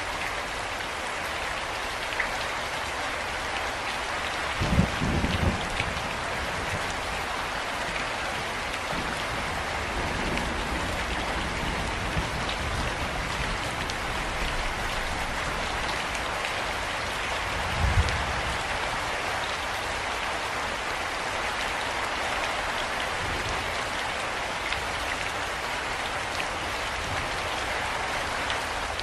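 Steady rain falling and pattering on a surface. A few low thumps rise above it, a short cluster about five seconds in and another near eighteen seconds.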